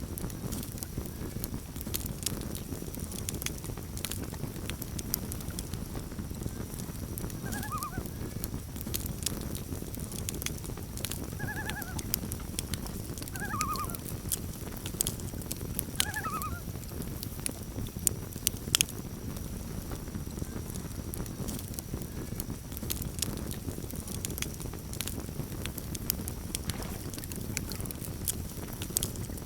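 Campfire crackling, with sharp pops scattered over a steady low rumble. Between about 8 and 16 seconds in come four short calls from distant water birds.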